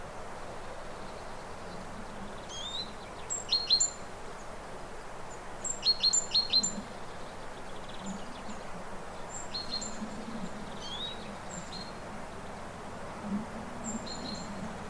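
Hummingbirds chirping in short clusters of quick, high-pitched chips, some with brief rising sweeps, a few seconds apart over a steady background hiss.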